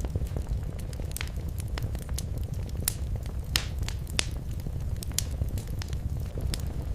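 Fire crackling in a fireplace: irregular sharp pops and snaps, several a second, over a steady low rumble of the flames, with one louder pop about three and a half seconds in.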